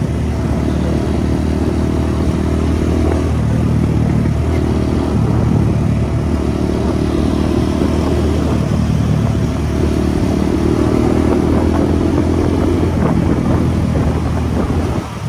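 Motorcycle engine running under way as it is ridden, its note swelling and easing a few times, with the rush of road and wind noise over it.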